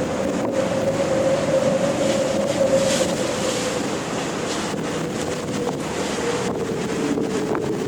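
Wind blowing over ocean waves: a steady rushing wash with a single steady whistle-like tone running through it, swelling a little around the middle.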